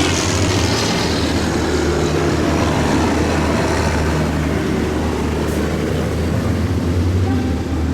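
Tractor diesel engines running as tractors drive past, a steady low drone with engine noise.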